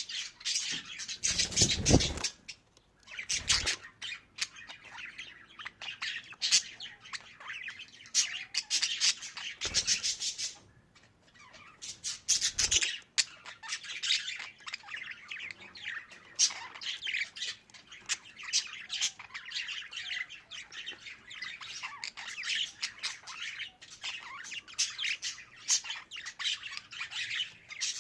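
Budgerigars chattering and warbling continuously, a fast stream of chirps and squawks. A few louder bursts with a low thump come at about 2, 3.5, 10 and 12.5 seconds in.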